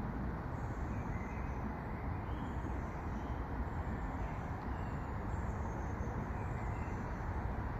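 Steady low rumble of distant traffic, with no knocking from the feeder lid.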